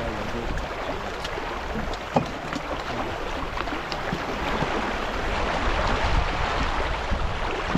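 Water rushing and splashing along the hull of a sailing yacht under way, with wind buffeting the microphone, and a single short knock about two seconds in.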